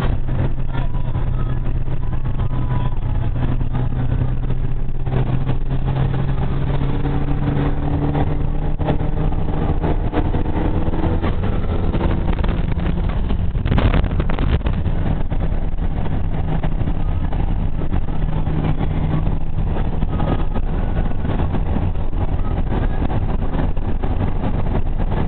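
Turbocharged Mitsubishi Eclipse GSX engine droning steadily at highway cruising speed, heard from inside the car with constant road noise. There is a brief knock about halfway through.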